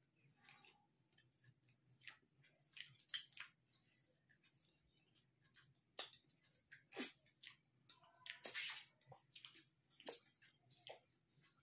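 Faint eating sounds of two people eating rice and fish curry by hand: scattered soft clicks and smacks of chewing, with the loudest about a quarter of the way in and again about three-quarters in.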